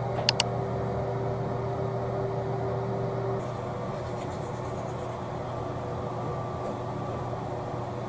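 Steady mechanical hum of background ambience, with two sharp clicks just after the start and a held tone that stops about three and a half seconds in.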